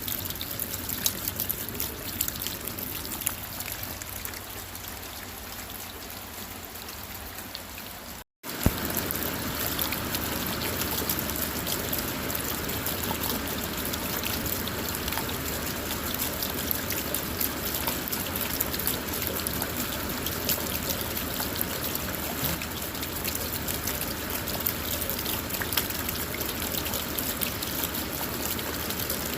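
Steady night rain heard from inside a car, with scattered ticks of individual drops. A little over a quarter of the way in it cuts out completely for a fraction of a second, then resumes slightly louder.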